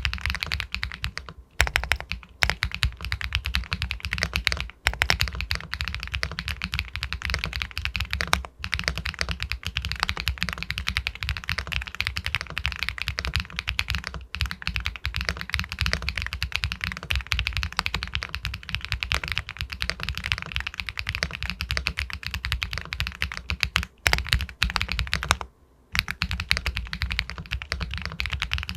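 Continuous fast typing on an Epomaker Galaxy 80 Pro aluminium mechanical keyboard with White Jade linear switches: dense key clacks with a few brief pauses, the longest about two-thirds of the way through.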